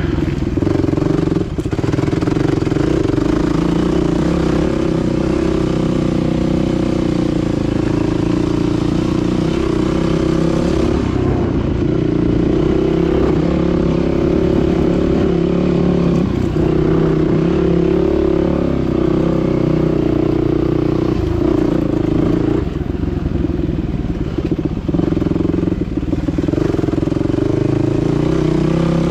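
Dirt bike engine running under steady throttle while riding, its note holding nearly level and easing off briefly a few times in the last third.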